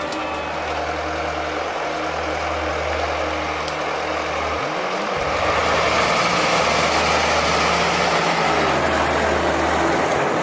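Heavy machine engine running steadily, with a brief break a little under halfway and louder running in the second half.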